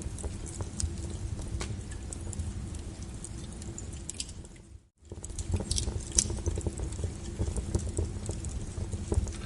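Wood fire burning, with irregular crackles and sharp pops over a low rumble of flame. About halfway through the sound fades away to nothing for an instant and comes straight back, with a few louder pops just after.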